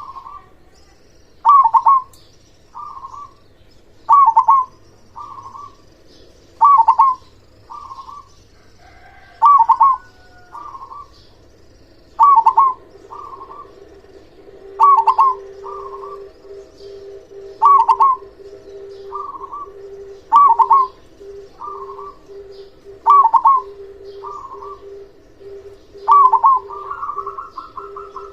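Zebra dove (perkutut) cooing, repeating the same short phrase about every two and a half seconds: a loud clipped note followed by a softer one.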